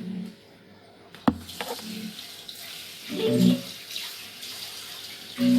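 Water running or being poured, a steady splashing hiss that starts about a second in, just after a single sharp click.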